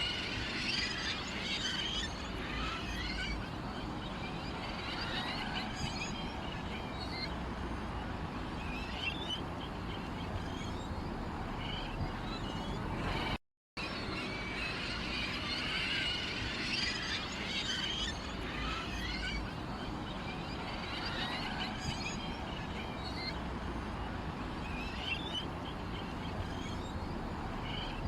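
Many small birds chirping and twittering together over a steady low rumble; the sound cuts out completely for a moment about halfway through.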